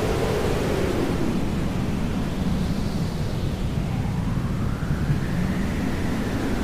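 Steady hair dryer noise, a continuous rushing hiss used as white noise, with slow sweeps rising and falling in its pitch.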